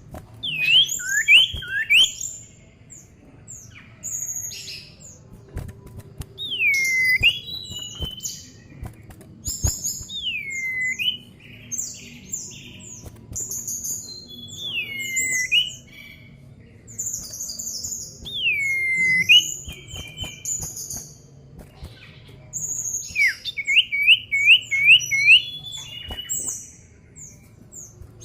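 Common iora (cipow) singing: repeated whistles that swoop down and turn back up, with short high chirps in between, and about 24 s in a quick run of five short whistled notes.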